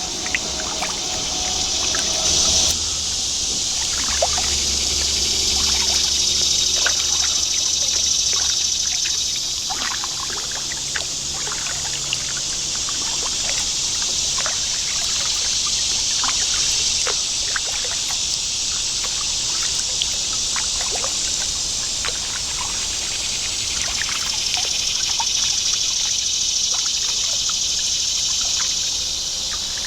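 Kayak paddling: water trickles and drips off the paddle with many small splashes, over a steady hiss that swells and fades slowly.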